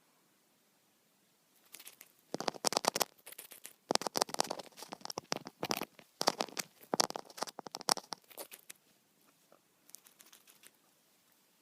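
Cockatiel's beak nibbling and chewing at a phone: runs of rapid, crunchy clicks from about two seconds in until about nine seconds in, then a few faint ones near the end.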